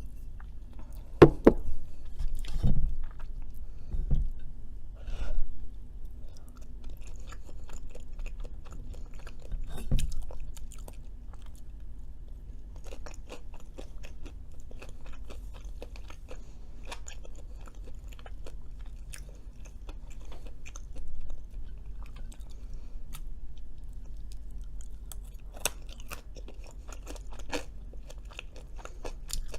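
Close-miked chewing and crunching of crispy Cajun fries, a continuous run of small wet, crisp clicks with a few louder knocks in the first few seconds and again around ten seconds in.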